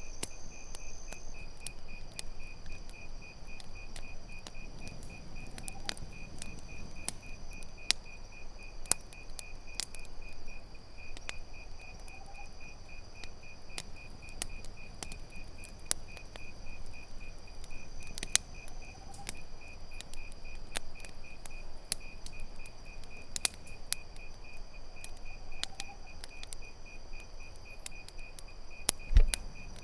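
Campfire crackling with scattered sharp pops, over the steady, fast-pulsing trill of crickets. One louder low thump comes near the end.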